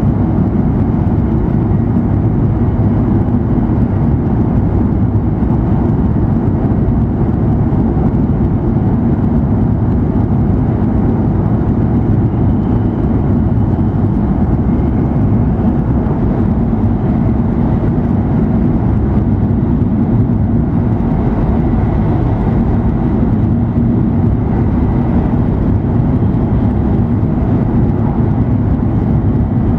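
Steady rumble and rush of an E7 series Shinkansen running at high speed, heard inside the passenger cabin, with a low hum beneath it.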